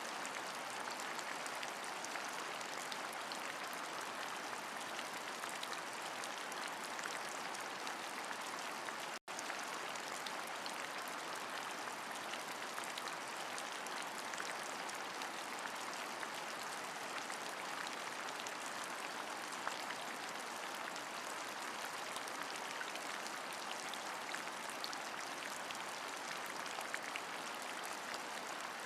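Steady rain, an even hiss with fine drops ticking through it; the sound cuts out for an instant about nine seconds in.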